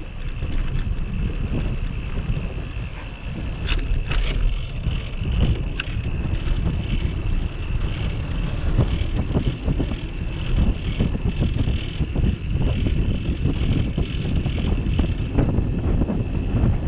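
Wind buffeting the microphone of a camera clamped to a moving bicycle, with a steady low rumble from the ride. A steady high tone runs underneath, and there are a few sharp clicks about four and six seconds in.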